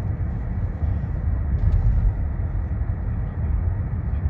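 Steady low rumble inside a Buick car's cabin: engine and road noise.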